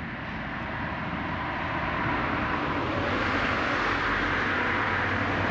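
Road traffic noise: a passing vehicle's tyre and engine noise growing louder over the first two or three seconds, then holding steady.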